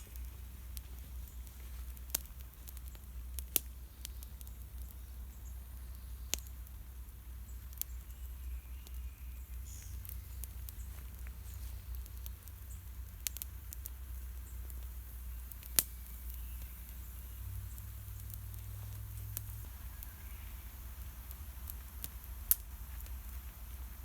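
Small campfire of wet wood crackling, with sparse sharp pops every second or few over a low steady rumble.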